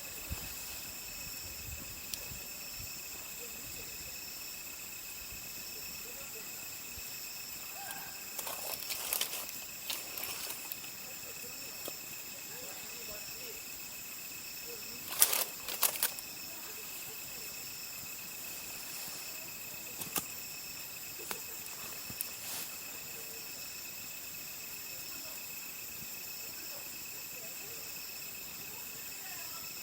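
Insects trilling steadily in several high, unbroken tones, over a wood fire that crackles and gives a few sharp pops, the loudest cluster about halfway through.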